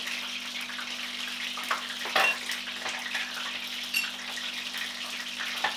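Samosas sizzling in hot oil in a frying pan, a steady hiss, with metallic clinks of a spatula against the pan about two and four seconds in.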